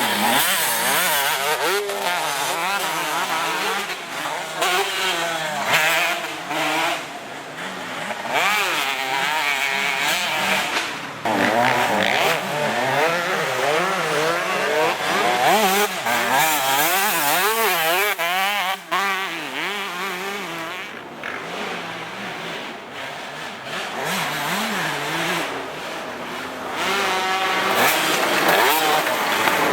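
Motocross bike engine revving hard and backing off again and again as it is ridden around the track, its pitch rising and falling with each burst of throttle.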